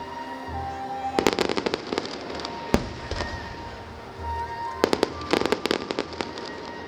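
Fireworks going off in two rapid volleys of sharp cracks, about a second in and again near five seconds in, with a single loud bang between them. Music plays steadily underneath.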